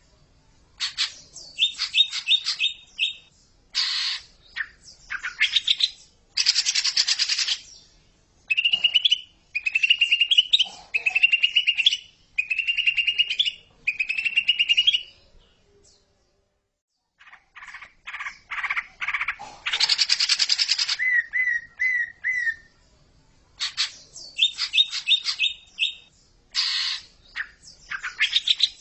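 Cucak ijo (green leafbird) singing a long, varied song: runs of short rising chirps, quick trills and harsh buzzy bursts, with a brief break a little past halfway.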